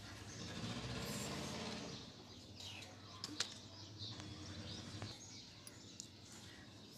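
Small birds chirping faintly, with one sharp click a little over three seconds in. A low droning sound runs through the first two seconds.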